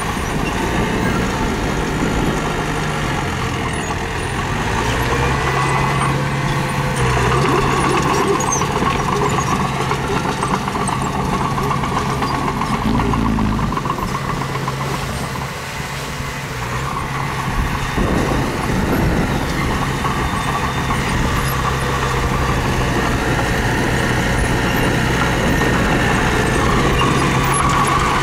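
Diesel engine of heavy earthmoving machinery running continuously, its note shifting a few times as it works.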